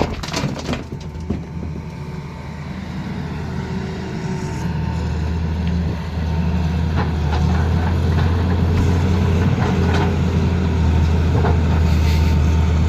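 Tata Hitachi excavator's diesel engine running under load, a steady low drone that swells over the first few seconds and then holds. A few knocks come right at the start.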